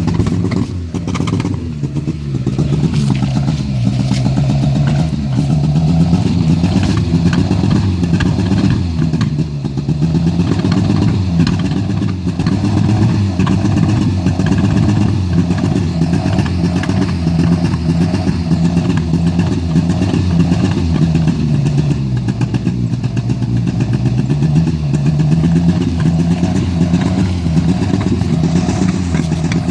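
Engine exhaust fitted with a flame kit, popping and crackling rapidly while the engine's pitch rises and falls slowly as it is revved.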